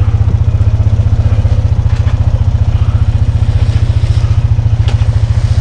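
Small off-road vehicle engine running steadily at low speed, a loud, rapid low putter close to the microphone.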